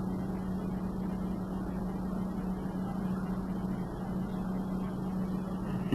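Steady background hum with one constant low tone over an even rushing noise, holding without change.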